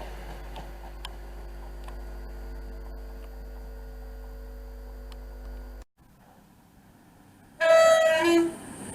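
Steady hum with several held tones that cuts off abruptly about six seconds in. Near the end a train horn sounds once, a high note then a lower one, the loudest thing here.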